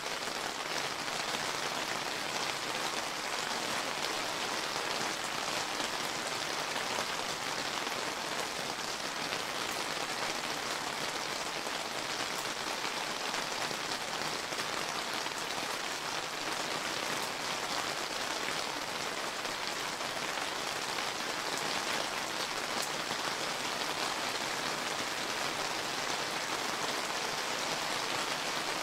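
Steady summer rain falling, an even hiss of many drops with small individual drop ticks scattered through it.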